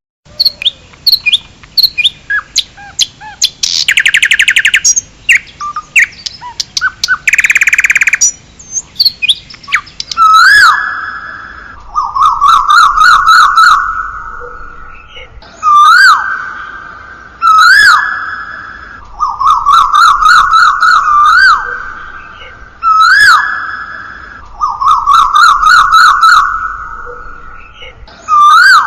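Songbirds chirping, with a couple of rapid trills. Then one bird phrase of rising whistles over a buzzy warble repeats again and again, about every three to four seconds.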